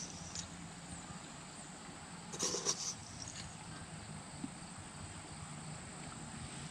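Quiet background with a faint steady hiss, broken by one short burst of handling noise about two and a half seconds in.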